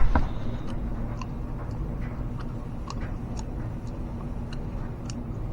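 A short thump, then a steady low machine hum with faint light ticks about twice a second.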